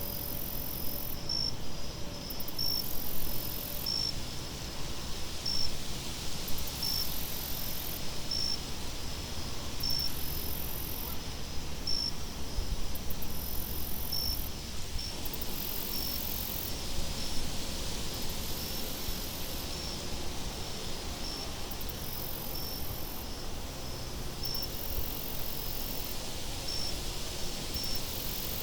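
Crickets chirping in a night-time nature ambience: a regular chirp about every second and a half, with a higher insect trill that pulses on and off, over a low steady rumble.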